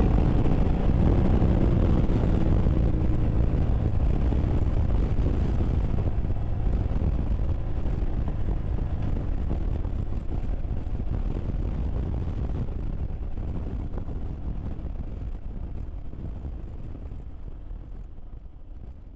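Steady low rumble of wind and road noise while travelling, gradually fading out over the last several seconds.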